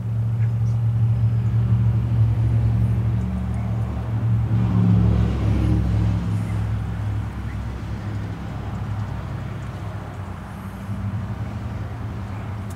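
An engine running, a steady low rumble that swells about five seconds in and then slowly eases off.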